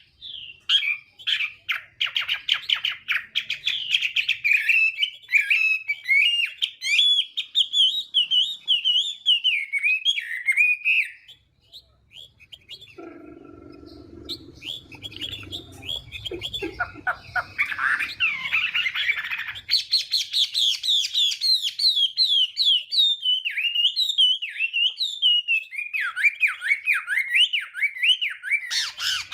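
Chinese hwamei (melodious laughingthrush) singing a loud, fast run of varied, warbling whistled phrases. The song stops for a few seconds around the middle, where a quieter, lower sound is heard, then starts again and runs on to the end.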